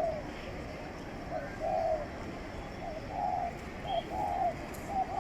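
Pigeon cooing: low soft coos in a repeated short-then-long pattern, about once a second.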